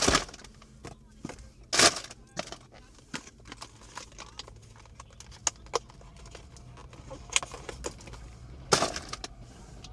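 Irregular clicks, taps and rustling from objects being handled, with three louder knocks: one at the start, one about two seconds in and one near the end.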